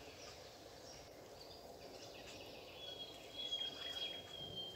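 Small birds chirping and calling over a quiet outdoor background hum, with one long, thin, steady whistle in the last second and a half.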